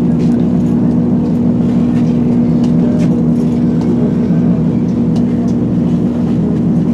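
A train's diesel engine running steadily, a constant low hum with no change in pitch.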